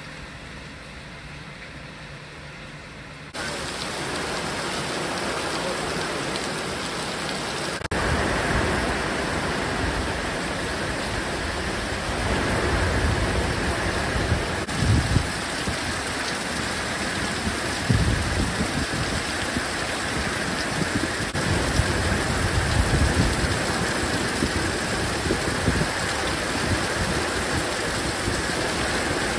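Heavy rain falling in a steady dense hiss. It gets abruptly louder about three seconds in and again about eight seconds in, and low rumbling surges come and go later on.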